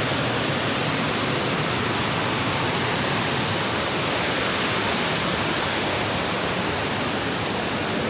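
Steady rushing of a waterfall, water falling and churning with an even, unbroken roar.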